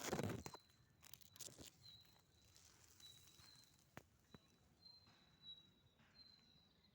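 A bird calling with a short, high, thin note repeated roughly once a second, over quiet outdoor ambience. A brief rustle at the start and a few faint clicks.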